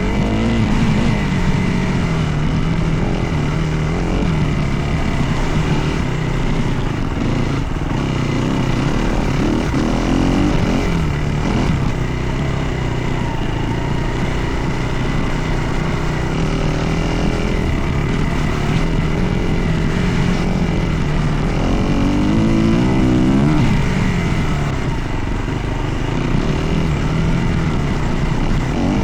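Dirt bike engine running under way, its pitch rising and falling as the throttle opens and closes, with clear revs about a third of the way in and again near the end.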